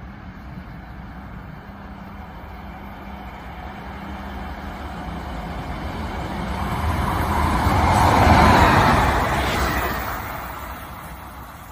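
Passenger train passing at speed through a station. The rumble and rush of wheels on rail build steadily to a peak about two-thirds of the way in, then fade as it goes by.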